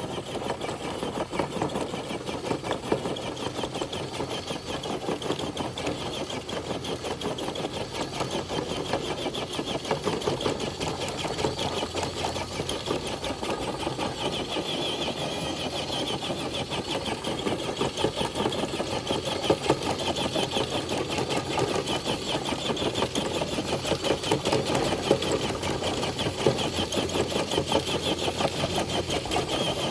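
Traxxas TRX4 RC crawler's electric motor and geared drivetrain whirring steadily under load as the truck drags a weighted sled, growing slightly louder as the pull goes on.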